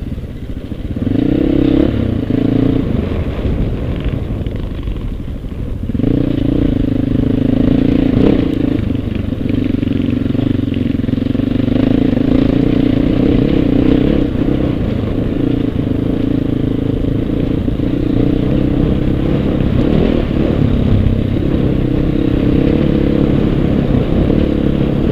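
Husqvarna TE630 dual-sport motorcycle's single-cylinder four-stroke engine running under way on a dirt road. The engine eases off briefly in the first few seconds, then picks up strongly again about six seconds in and holds steady.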